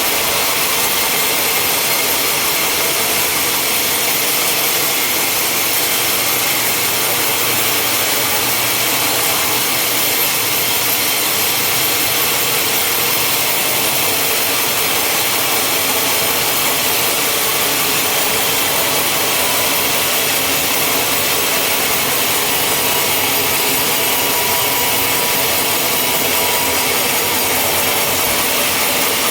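Sawmill saw running steadily through timber: a continuous, loud, hissing cut with machine noise beneath, unbroken throughout.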